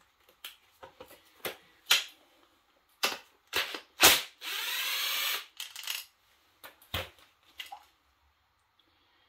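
Metal tools and engine parts handled on a workbench: scattered clicks and clinks, several sharp knocks about three to four seconds in, then a brief rushing scrape lasting just over a second, and a few more clicks.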